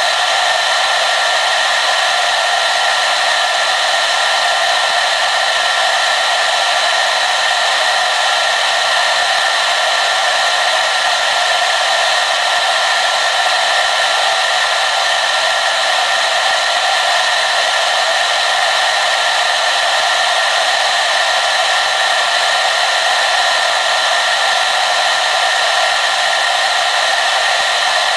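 Hair dryer running steadily: a constant rushing of blown air with a faint steady whine from the motor, unchanging throughout.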